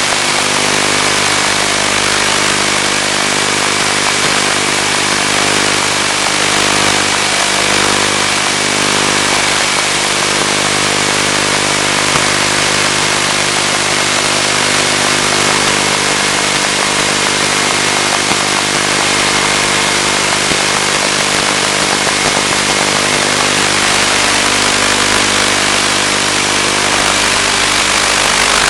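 Steady, unchanging drone from the Finwing Penguin's electric motor and propeller, carried with a heavy hiss over the analog FPV video link's audio channel. A constant hum sits under the hiss, along with a thin steady high whine.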